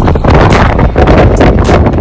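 Strong storm wind buffeting the microphone: loud, steady rumbling wind noise with sharp crackles.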